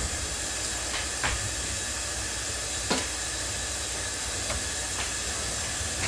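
A steady hiss in a kitchen, with light knocks and clicks about a second in, near three seconds, and twice more around four and a half to five seconds, as a stovetop is wiped down.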